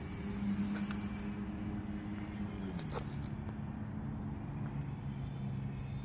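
Brushless electric motor and 7x6 propeller of a home-made RC plane droning steadily in flight; the pitch drops noticeably about three seconds in.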